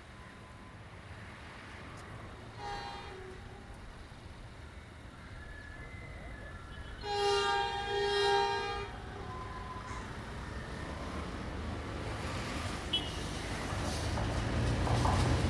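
Train horn sounding: a short toot about three seconds in, then a louder two-part blast a few seconds later. After it the rumble of an approaching diesel train grows steadily louder toward the end.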